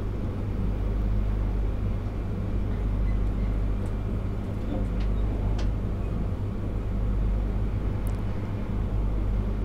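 Cabin noise of an E3 series Yamagata Shinkansen train running on the line: a steady low rumble and hum from the wheels and running gear, with a few faint clicks.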